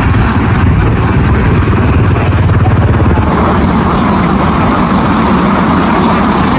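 A heavy engine running steadily with a deep rumble that eases a little about three seconds in.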